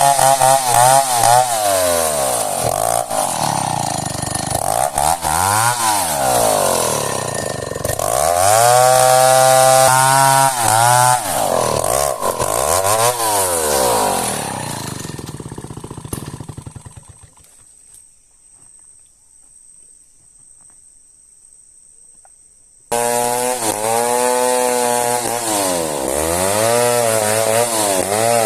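Two-stroke chainsaw cutting through a hard merbau log, its engine speed repeatedly sagging under load and climbing back up. About halfway through it winds down into several seconds of quiet with only a faint high whine, then cuts back in suddenly at full revs.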